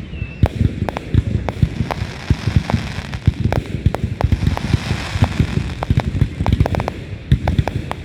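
Fireworks going off in a rapid, continuous run of bangs and deep booms, with a hissing crackle swelling up about halfway through.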